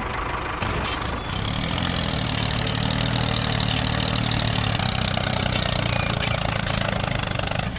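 A motor running steadily at an even pitch, like an idling engine, with a low hum and a higher whine above it.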